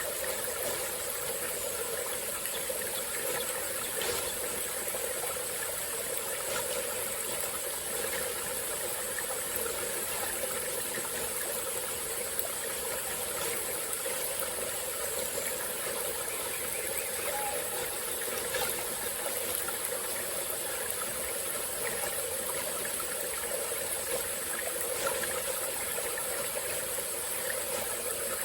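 Small tropical forest stream flowing steadily, a continuous babble of running water.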